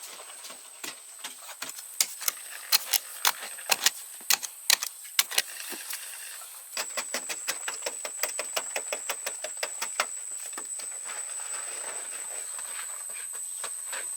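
Irregular sharp knocks and taps from hand work with tools: a handful of loud strikes about two to five seconds in, then a quicker run of lighter taps, over a steady high-pitched whine.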